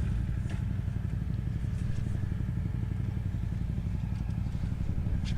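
ATV engine idling steadily, a low, even pulsing rumble, with a few faint clicks.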